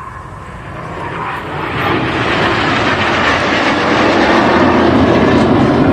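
Jet engine noise from the Red Arrows' BAE Hawk T1 display jets, approaching and growing louder over the first two seconds, then staying loud and steady.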